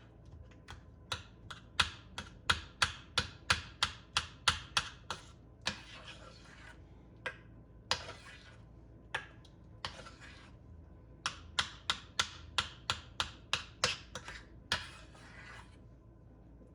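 Two quick runs of sharp taps or clicks, about three a second, with short hissy rasps about a second long in between.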